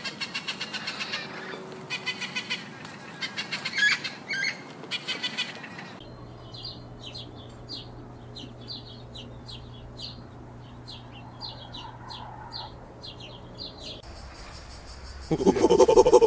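High-pitched animal chirping: rapid chattering trills, then a run of short high chirps about twice a second. Near the end a much louder, lower animal call sets in.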